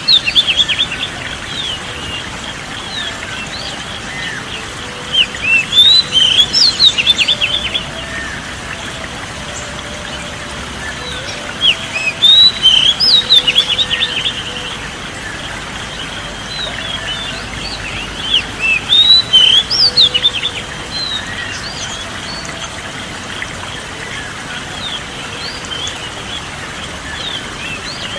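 Songbirds chirping and trilling in quick high bursts, four spells of about two seconds each, roughly every six or seven seconds, over a steady background hiss.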